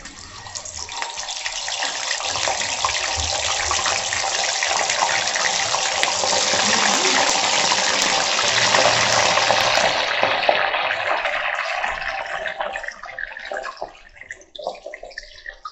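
Paneer frying in hot mustard oil in a kadhai on high heat: a loud sizzle starts as the paneer goes in, builds for several seconds, then dies down over the last few seconds.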